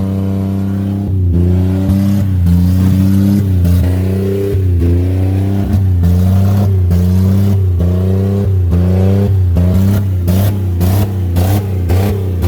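Buick Century's engine revving hard over and over, its pitch rising and falling about once a second and quicker near the end, as the car is run to destruction.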